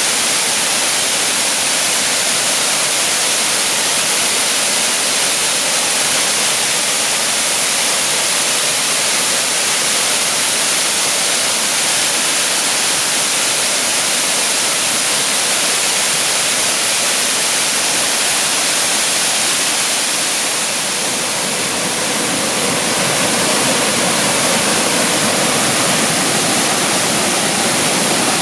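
Waterfall pouring steadily, a dense continuous rush of falling water. The level dips briefly about three-quarters of the way through, and the rush sounds fuller and deeper after that.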